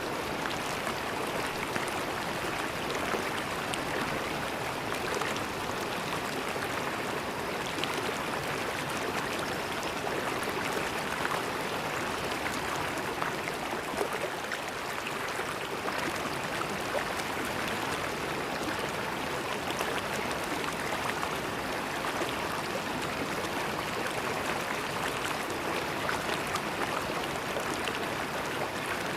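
River water flowing steadily over rocks, a constant rushing with small splashes and gurgles.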